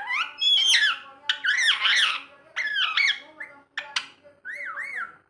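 Rose-ringed (green ringneck) parakeet calling: a run of about six short, high squawks that rise and fall in pitch.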